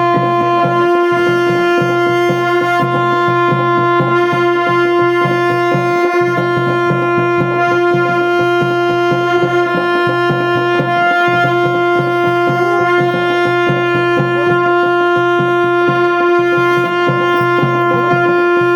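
Folk procession music: a wind instrument holds one unbroken droning note over fast, continuous drumming.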